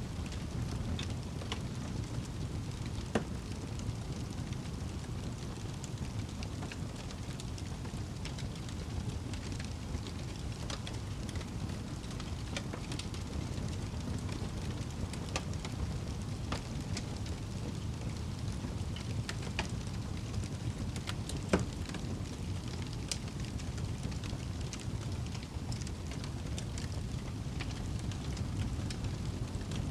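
Wood fire crackling in a fireplace: scattered sharp snaps and pops over a steady low rumble, with two louder pops, one about three seconds in and one about twenty-one seconds in.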